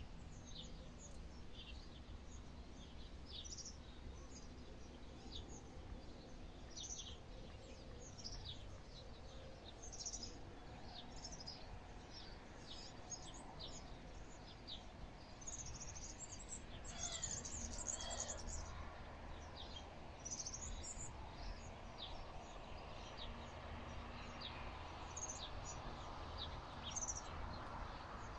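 Small birds chirping repeatedly in short, high, falling calls, with a denser run of chirping about halfway through, over faint steady background noise.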